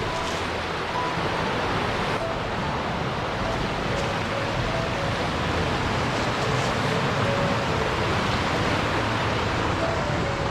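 A steady rushing noise, with faint short tones sounding here and there above it.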